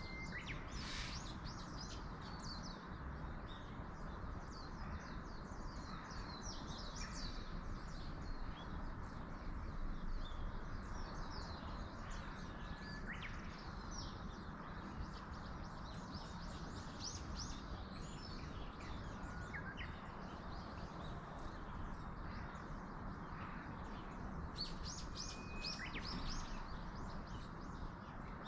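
Small songbirds chirping and twittering in many quick short notes, thickest in a cluster about 25 seconds in, over a steady rushing background.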